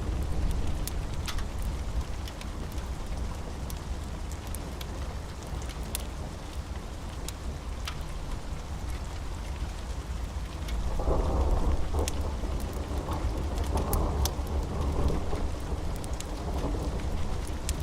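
Steady rain with a deep thunder rumble underneath. The thunder swells and rolls about eleven seconds in, and sharp crackles are scattered throughout.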